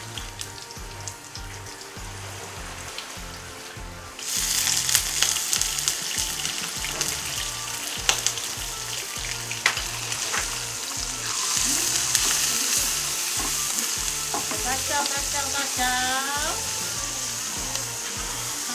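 Chopped aromatics sizzling in hot oil in a nonstick frying pan, stirred with a plastic slotted spatula. About four seconds in, prawns go into the pan and the sizzle jumps to a loud, steady hiss with crackles.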